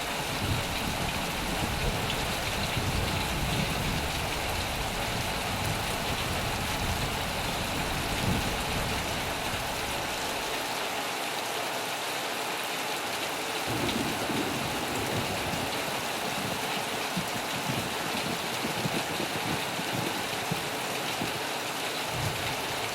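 Steady heavy rain drumming on a metal roof, with a low rumble underneath that fades out about ten seconds in and returns more faintly later.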